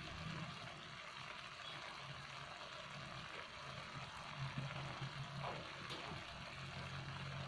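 Butter sauce bubbling and sizzling around shrimp frying in a nonstick wok, with a steady sizzle throughout.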